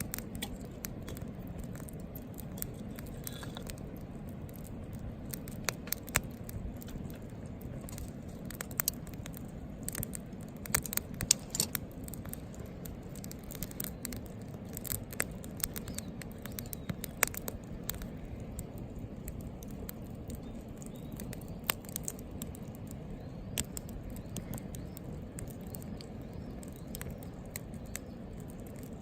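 Wood fire burning in a Picogrill portable fire pit: irregular sharp crackles and pops over a steady low rush of flame.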